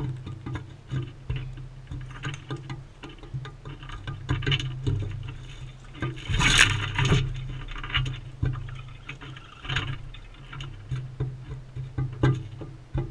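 Irregular sharp clicks and taps over a steady low hum, with a brief noisy burst about six and a half seconds in.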